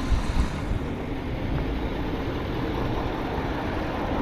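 A vehicle engine idling with a steady low rumble, with a couple of short knocks in the first half second.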